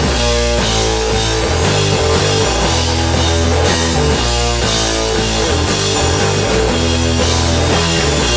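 A rock band playing live, with electric guitars over bass and drums in a steady, dense texture.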